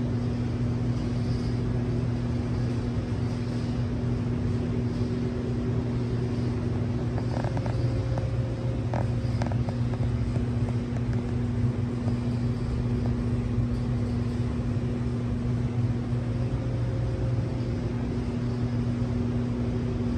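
Audi S4's 2.7-litre twin-turbo V6 idling with a steady low drone, with a few light clicks between about seven and ten seconds in.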